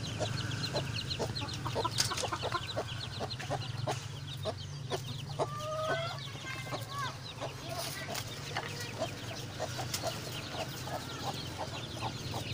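A flock of village chickens clucking, with many short calls overlapping and a few longer drawn-out calls midway, over a steady low hum.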